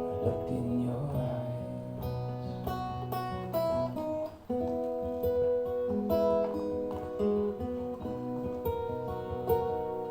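Acoustic guitar playing an instrumental passage of plucked notes and strummed chords, dropping away briefly about four seconds in before carrying on.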